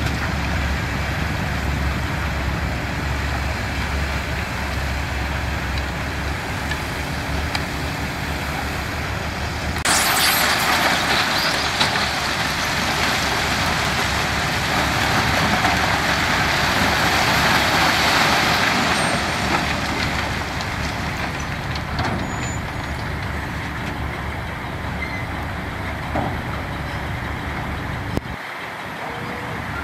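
Heavy diesel construction machinery running with a steady low rumble. About ten seconds in, a sudden loud rushing noise starts and lasts several seconds before fading.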